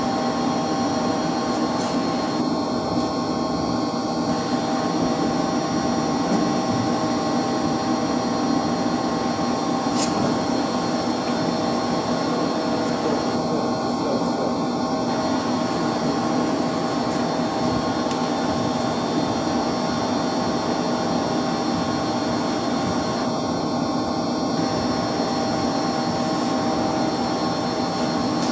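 Steady machine drone of a heating circulation pump and plant-room machinery running: an even hum with several constant tones over it. One faint click about ten seconds in.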